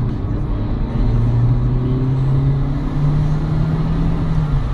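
Car engine and road noise heard from inside the cabin while driving at speed: a steady engine drone whose pitch drops about a second in and rises again about three seconds in.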